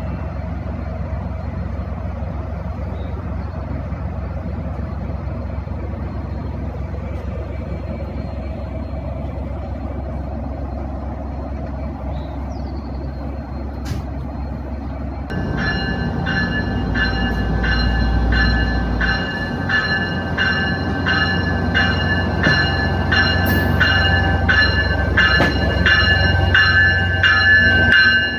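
Amtrak diesel locomotive rumbling steadily as the train pulls into the station. About halfway through, its bell starts ringing in even strokes, about one and a half a second, and carries on over the rumble.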